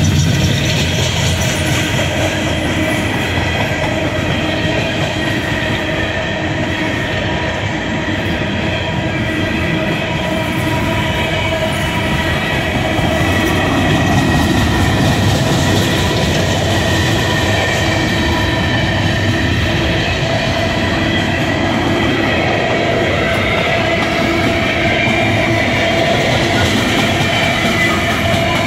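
Empty CSX open-top coal cars rolling past close by, their steel wheels clacking over the rail joints in a continuous loud rumble, with a steady metallic wheel squeal running through it.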